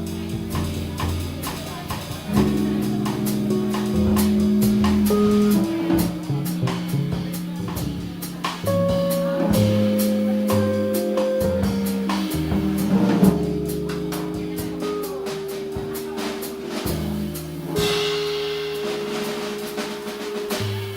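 Live instrumental music: a drum kit playing steadily, with snare, bass drum and rim hits, under held piano notes and chords.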